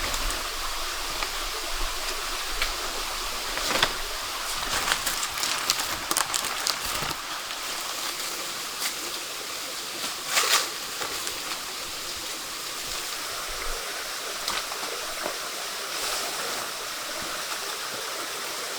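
Steady rush of running water, with a few short sharp clicks over it, the clearest about four seconds in and about ten seconds in.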